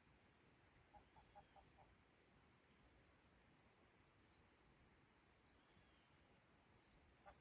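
Very faint countryside ambience: a steady high chorus of insects, with a quick run of about five clucks from a distant chicken about a second in and a few more near the end.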